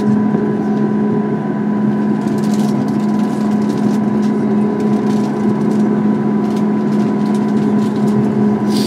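Steady cabin drone inside a Boeing 737 MAX 8 with its engines running on the ground before takeoff: a strong low hum with a thin higher whine over it, light cabin rattles, and a short sharper rattle near the end.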